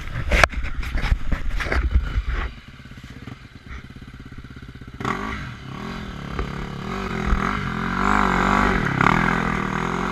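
Dirt bike engine revving, its pitch rising and falling repeatedly through the second half, after a burst of knocks and clatter in the first couple of seconds.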